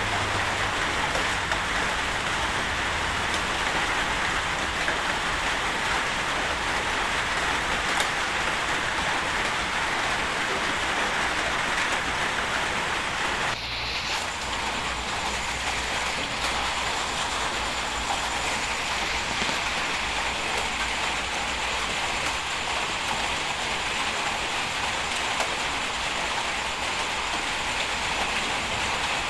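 Bulldozer at work: a steady hiss of crunching earth and rock with a low engine rumble underneath, changing abruptly about halfway through.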